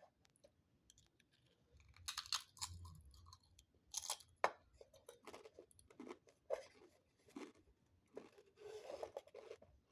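A person biting into and chewing crunchy food close to the microphone. The crunches come irregularly, the loudest clusters about two and four seconds in, with a run of shorter crunches after.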